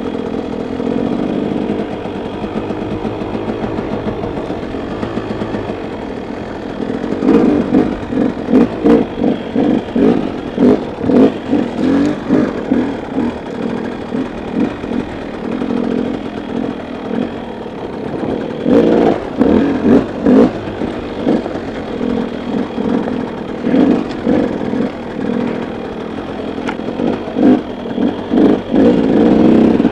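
KTM dirt bike engine running at low speed over rough ground, with repeated short throttle blips and surges in several stretches, and the clatter of the bike over the terrain.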